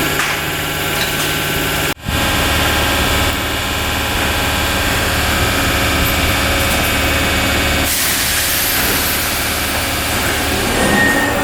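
Merseyrail PEP electric multiple unit at the station, its electrical equipment giving a steady hum and whine with several held tones. About eight seconds in, a louder rushing noise builds, and near the end new whining tones come in as the train moves.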